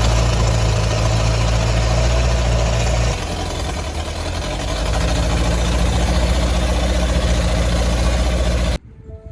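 Hitachi excavator's diesel engine running steadily after being dug out of a debris flow, with its oils, fuel and battery replaced. Its sound drops back a little about three seconds in and builds again around five seconds, then cuts off abruptly near the end, giving way to quiet music.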